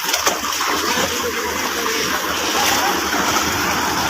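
Floodwater rushing and splashing in a steady, loud wash, with a few sharper splashes just after the start.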